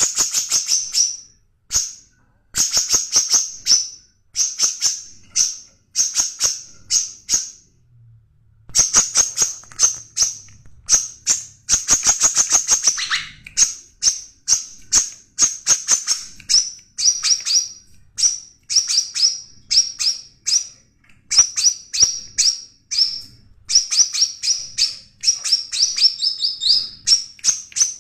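Songbird singing in short bursts of rapid, high-pitched chirping notes, about a second per phrase with brief pauses between phrases.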